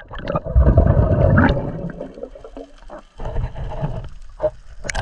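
Seawater splashing and gurgling around the camera of a swimmer in the open sea, loudest for the first two seconds and then quieter.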